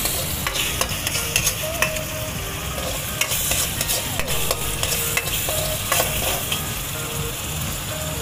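Sambal paste frying in hot oil in a wok, sizzling steadily. A spatula scrapes and clicks irregularly against the pan as the paste is stirred.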